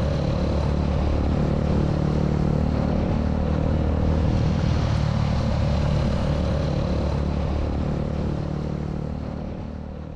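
Motorcycle engine running steadily at a constant pitch, fading out over the last couple of seconds.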